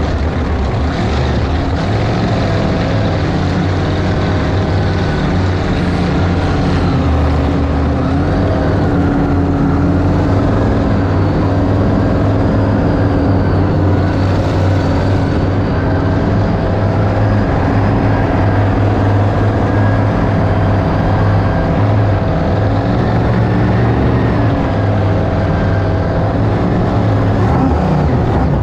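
1971 Sanger flat-bottom V-drive boat's inboard engine running steadily under way, loud, with only small rises and falls in pitch.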